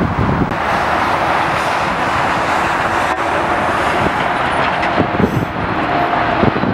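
Jet airliner engines running with a steady, loud noise, with gusts of wind buffeting the microphone.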